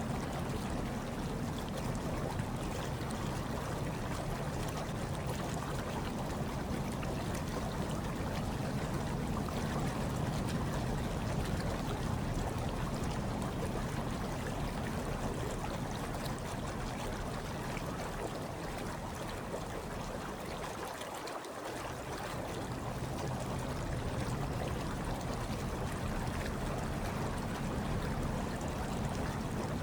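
Hot tub water churning and trickling steadily, with a low hum underneath that dips briefly about two-thirds of the way through.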